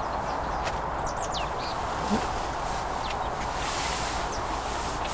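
Outdoor ambience: a steady rushing noise, with a few short high bird chirps about a second in and again briefly past the middle.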